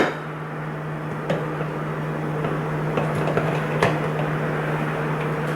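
A few light knocks and clinks of kitchen containers being handled, over a steady low hum.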